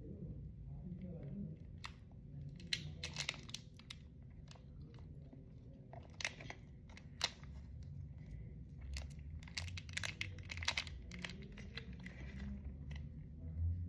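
Small plastic packaging being handled and torn open: crinkling and tearing with scattered sharp clicks, loudest between about six and eleven seconds in.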